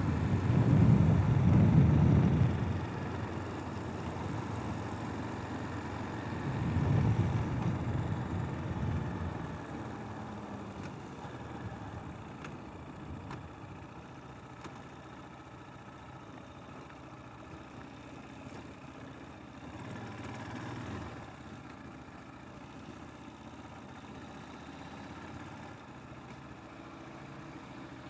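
250 cc enduro motorcycle engine, with two louder surges of throttle in the first ten seconds, then running quieter and steady, with a brief rise about twenty seconds in.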